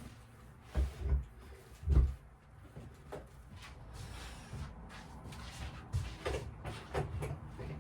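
A series of dull knocks and sharper clicks, with the loudest knocks about a second and two seconds in and more clicks later, like objects being handled on a workbench.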